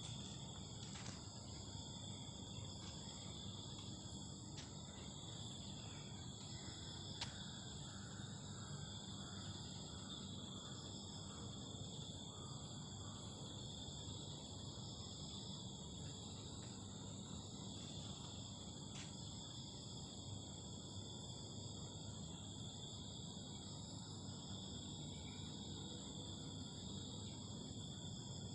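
A chorus of insects chirring without pause, several steady high-pitched tones layered over one another, with a few faint clicks.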